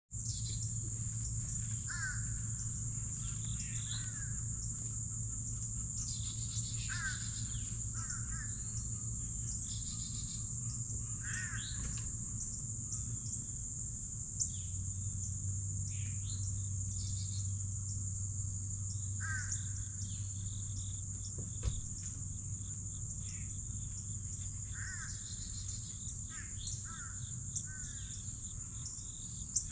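Wild songbirds calling, short harsh calls every few seconds, over a steady high-pitched insect drone and a low hum.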